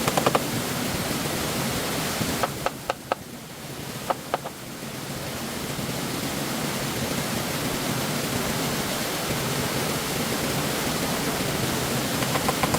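Steady rushing of stream water. It drops away briefly about three seconds in, where a few sharp knocks sound, and a quick run of taps comes near the end.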